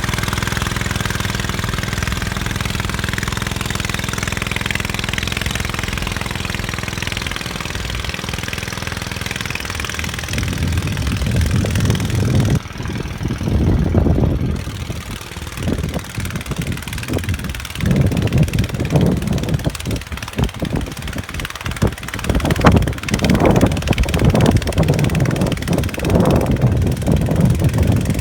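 Gravely tractor engine running steadily, then from about ten seconds in the sound turns uneven, with loud low surges coming and going.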